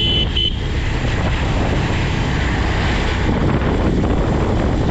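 Wind rushing over the microphone along with the motorcycle's steady running and road noise during a ride. A few short, high beeps sound right at the start.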